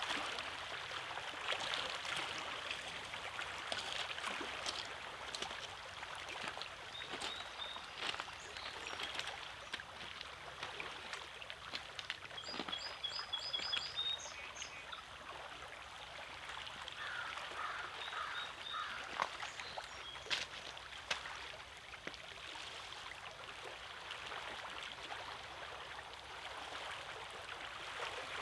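Small waves washing and lapping over rocks at a lake shore, with little splashes and clicks throughout. Gulls call in short bursts several times, around a third of the way in, near the middle and again about two-thirds through.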